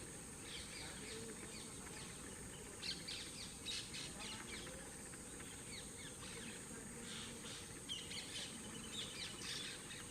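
Birds chirping: many short, quick calls scattered throughout, a few louder than the rest, over a steady high hiss.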